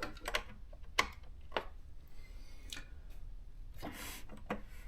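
A few faint, scattered clicks and light knocks as a small electronic thermal typewriter is handled.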